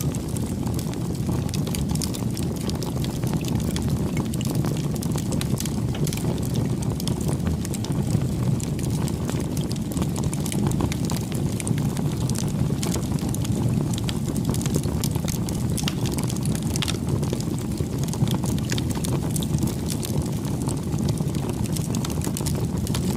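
Wood fire burning with a steady low rush of flame and frequent irregular crackles and pops from the burning wood.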